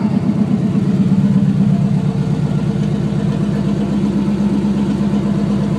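Chevrolet L05 5.7-litre V8 idling steadily through open Hedman headers, a loud, even, rapid exhaust pulse with no revving.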